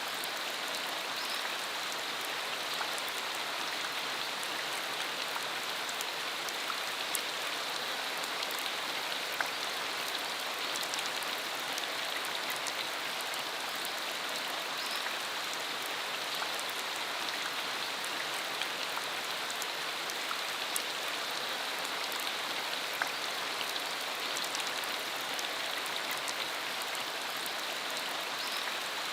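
Steady rain shower falling: an even hiss with scattered sharper ticks of single drops striking close by.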